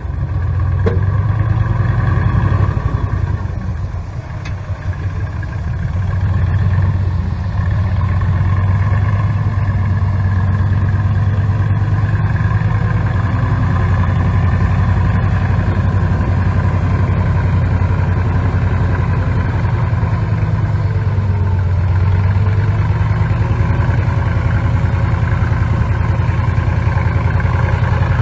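Diesel engine of heavy earthmoving equipment running steadily with a deep, rapidly pulsing drone, easing off briefly about four seconds in before coming back up.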